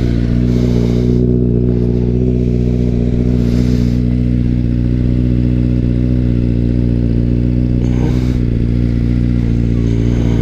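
Honda CBR sport motorcycle engine idling steadily, close up.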